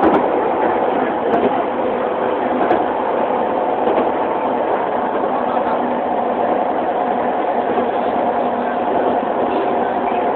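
Keihan Keishin Line electric train running: a steady rail and running noise with a few level motor tones that hold through the whole stretch.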